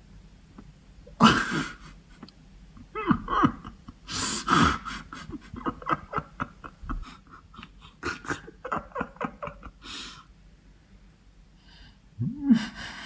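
People's voices gasping and laughing, without words, with a run of quick repeated laughing bursts about halfway through.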